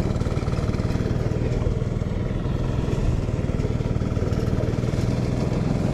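Small engine running steadily at a constant speed, with a rapid, even pulsing hum.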